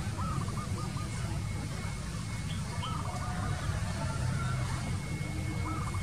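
A bird calling a short phrase of quick repeated notes three times, about three seconds apart, over a steady low rumble.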